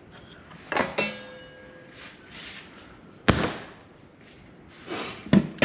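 Metal parts of a Ryobi table saw knocking and clanking as they are worked on during the teardown. Two knocks come about a second in, the second ringing briefly like struck metal. The loudest, sharpest strike comes a little past three seconds, and a couple more knocks follow near the end.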